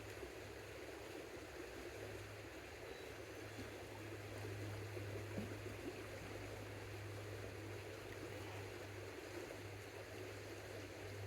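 Creek water flowing, a faint steady rush, with a steady low hum underneath.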